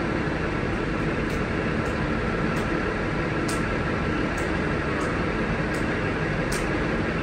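Steady hum and rumble on a railway station platform, with a stationary passenger train idling alongside, and faint scattered clicks in the background.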